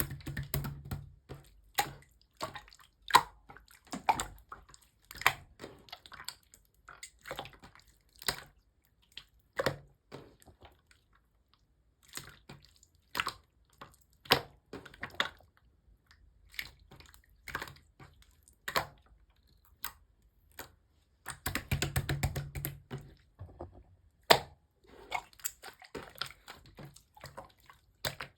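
Orange slime being squeezed and poked by hand: irregular wet pops and clicks, about one or two a second, with a couple of denser squishing stretches, one near the start and one past the middle.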